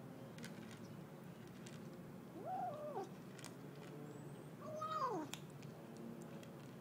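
A kitten making two short "mmmm" meow-like calls while it eats, about two seconds apart, each rising and then falling in pitch, with faint clicks between them.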